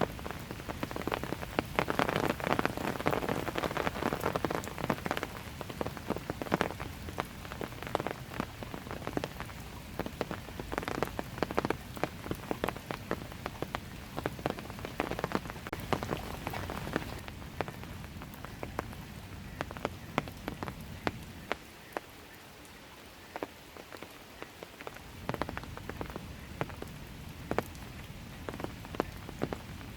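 Steady light rain falling, with many separate drops pattering and ticking on nearby surfaces; the patter eases briefly about two-thirds of the way through.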